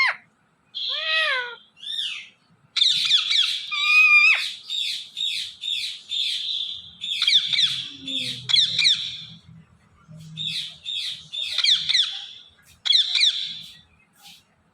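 Indian ringneck (rose-ringed) parakeets calling: a few short gliding whistled notes at first, then long runs of quick, harsh, downward-sweeping chirps and screeches in bursts.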